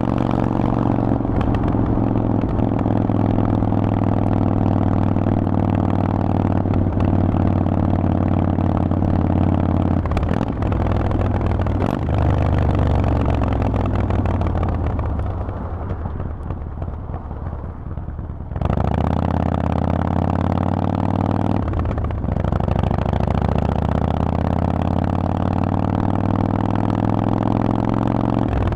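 Harley-Davidson Forty-Eight's air-cooled 1200 cc V-twin breathing through a Vance & Hines exhaust while riding. It runs steadily under throttle with two quick gear changes about a third of the way in. Then the pitch falls and the engine quietens on a closed throttle for a few seconds. About two-thirds in, the throttle snaps open and the pitch climbs again through another gear change.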